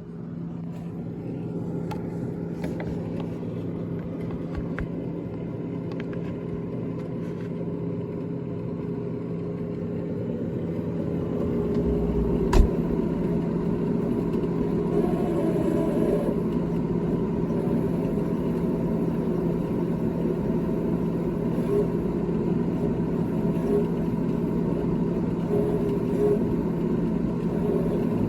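GE GTH18XCTZRBB refrigerator running: a steady mechanical hum with several constant tones that sets in at the start. It grows louder about twelve seconds in, with one sharp click.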